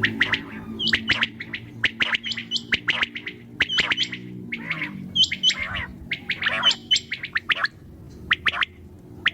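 Quail calling: a rapid, irregular run of short, sharp chirps and squeaky hooked notes, several overlapping. A low steady hum underneath fades out about halfway through.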